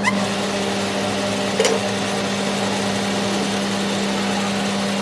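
Workshop machine running with a steady hum, and one sharp click about one and a half seconds in.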